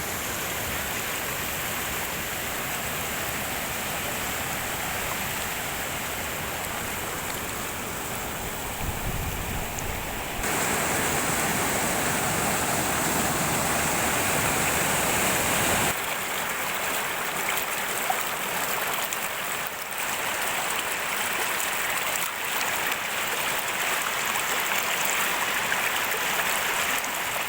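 Heavy rain falling as a steady rushing hiss. It jumps louder and brighter about ten seconds in and changes character again about sixteen seconds in.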